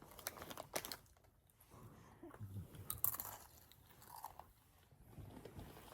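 A person faintly crunching and chewing a crunchy snack, in short irregular bites.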